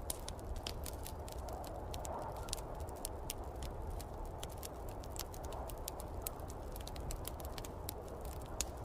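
Wood fire crackling in a fireplace, with many irregular sharp pops and snaps. Under it is a steady low rush of snowstorm wind.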